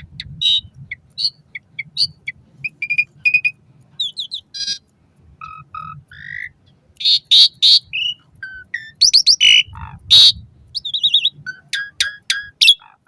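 Asian pied starling (jalak suren) singing a varied, jumbled medley of short whistles, sliding notes, chirps and harsh rasping notes, the harsh notes loudest in the second half.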